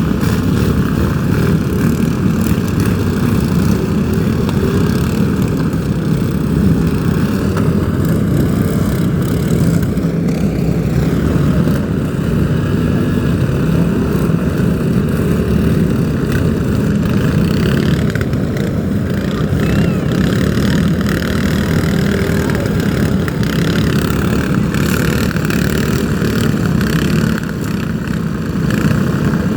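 An engine running steadily and loudly, its pitch rising and falling slightly.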